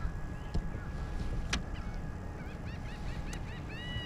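A bird calling in a rapid series of short, arched notes, starting about two and a half seconds in and growing louder near the end, over a steady low rumble with a few sharp clicks.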